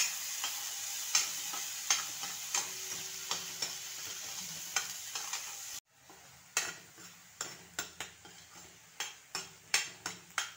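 Ground masala paste sizzling in hot oil in a steel kadhai, with a metal spoon stirring and scraping it and making frequent short scrapes and taps on the pan. The paste is being fried until the oil separates from it. About halfway through, the sizzle drops away abruptly while the spoon scrapes carry on.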